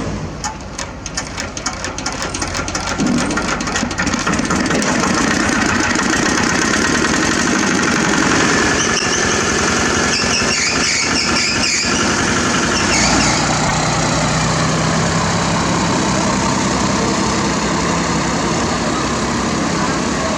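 A heavy diesel engine running steadily, with rapid ticking in the first few seconds. A high squeal comes in briefly about halfway through.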